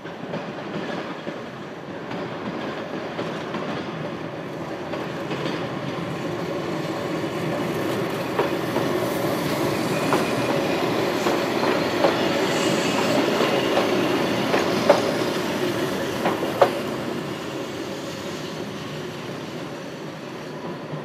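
Keihan 700 series two-car electric train passing close by, its running noise building to a peak mid-way and then fading as it draws away. About half a dozen sharp clicks come from the wheels on the rails as it passes.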